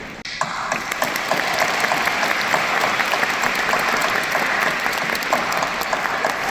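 Large audience applauding: dense, steady clapping from many hands, after a brief dip at the very start.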